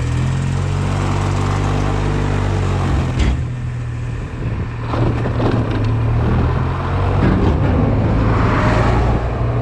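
Honda Silver Wing scooter engine running under the rider, a steady low hum that dips briefly about three seconds in and picks up again near the end.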